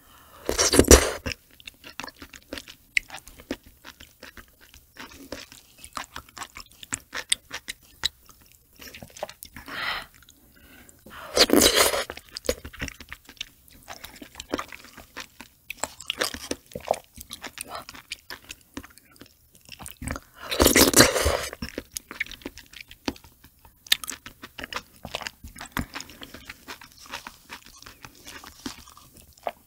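Close-miked mouth sounds of someone eating octopus eggs: wet chewing and smacking made of many small clicks. There are a few louder stretches of about a second each, about a second in, near the middle and about two-thirds of the way through.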